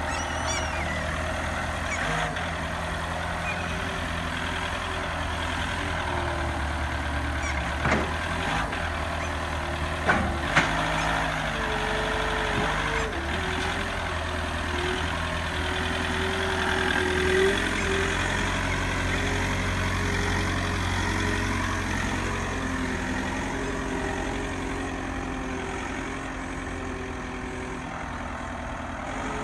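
Truck engine running steadily, with a few sharp clicks about eight and ten seconds in.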